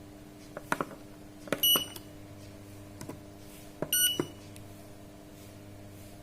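Keypad buttons pressed on a Sanken digital solar water heater controller: several sharp clicks, and two short high beeps about two and a half seconds apart as the controller takes a key press. A steady low hum runs underneath.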